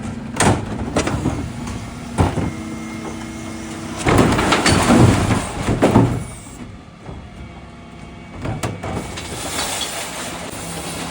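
Dennis Elite refuse truck running steadily, with sharp knocks and a loud clatter of about two seconds near the middle, as from a bin being tipped into the hopper.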